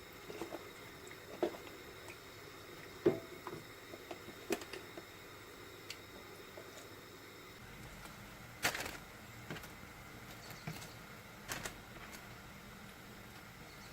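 A few light, irregular knocks and clicks, the sharpest about 3 s and 9 s in, over a faint steady hiss of room tone.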